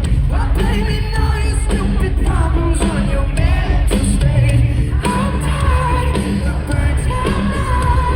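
Live pop-rock concert music: a male singer holding long wavering sung notes over a full band, loud and steady.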